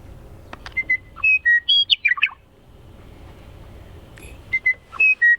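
Western meadowlark song, heard twice: each phrase opens with a few clear whistled notes and ends in a quick run of falling notes.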